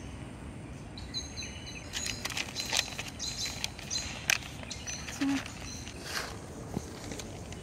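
Small birds chirping in short, repeated high notes, with scattered clicks and rustles through the middle. Near the end a cat is crunching dry kibble.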